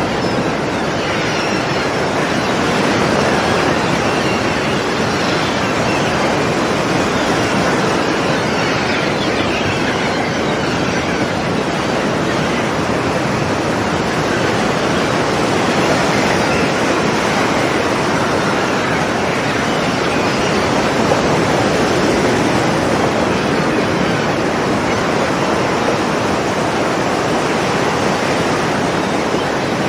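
Sea waves washing in and breaking against rocks, a steady rushing surf with gentle swells in level.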